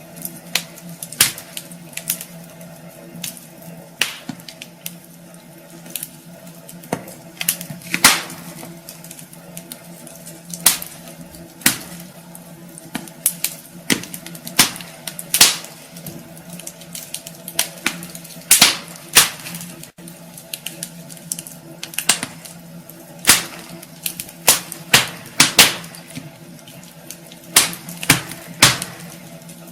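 Wood fire burning in a fireplace, crackling with irregular sharp pops, sometimes several close together, over a faint steady hum.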